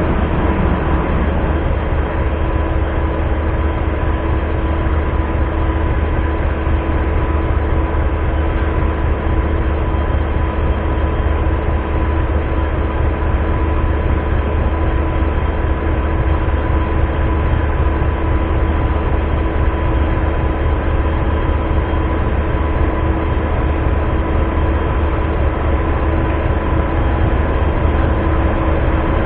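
Diesel train idling while stationary: a steady low rumble with a constant hum over it, unchanging throughout.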